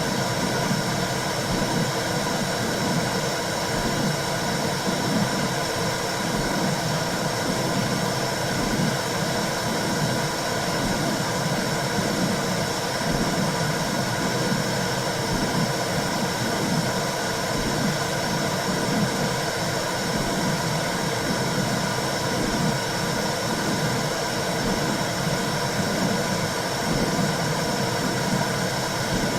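Womb sound played as white noise for a baby: a steady rushing hiss with a low whooshing that swells and fades in a regular pulse, like blood flow heard from inside the uterus.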